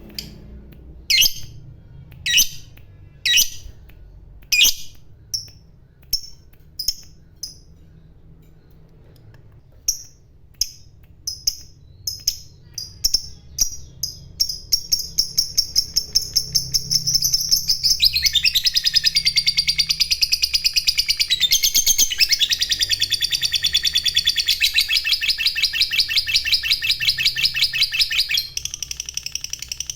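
Lovebird singing: sharp high chirps about a second apart speed up into a rapid trill, which about halfway through becomes a long, dense, continuous chattering song, the drawn-out 'ngekek panjang' trill prized by lovebird keepers. It gets a little quieter near the end.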